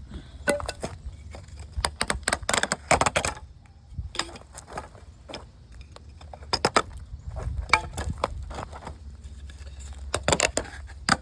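Wooden strips being pried and ripped off an old wooden frame by hand. Irregular cracks, knocks and rattles come in clusters, thickest around two to three seconds in and again near seven and ten seconds.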